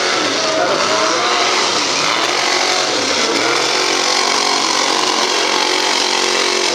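A mega truck's engine revving up and down several times, then holding a steady high speed.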